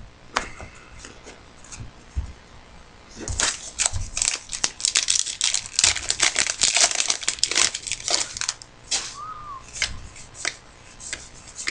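Trading card pack wrappers crinkling and tearing as packs are opened. There is a dense run of sharp crackles through the middle, then a few scattered clicks near the end.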